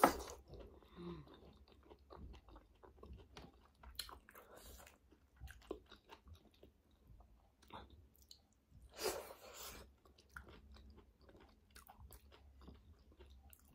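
Close-up eating sounds of a person chewing mouthfuls of a vegetable curry meal: soft irregular chewing and small mouth smacks, with a louder short noise about nine seconds in.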